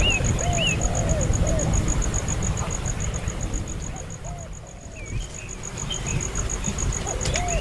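Baby birds giving short, repeated begging chirps, each one rising then falling in pitch, in a cluster at the start and another about four seconds in. A steady, fast, high-pitched pulsing of about five beats a second runs underneath.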